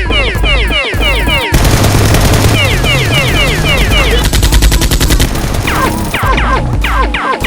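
Rapid automatic gunfire sound effects, with a dense run of shots in the middle. Quick falling, whistle-like zips run throughout, over music with a heavy bass.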